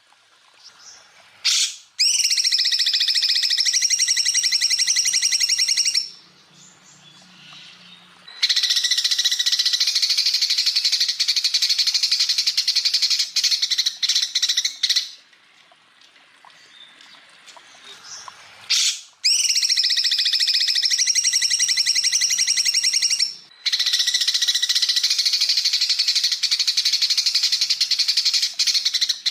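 Green leafbird (cucak ijo) singing long, very fast buzzing trills, the rapid 'tembakan' phrases, each lasting several seconds with short pauses between. Four trills in all, the second pair repeating the pattern of the first.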